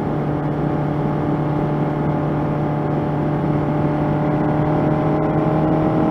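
1985 Honda CB700SC Nighthawk's inline-four engine running at a steady cruising speed, heard from the saddle over wind and road noise. The engine note rises slightly near the end as the bike picks up speed.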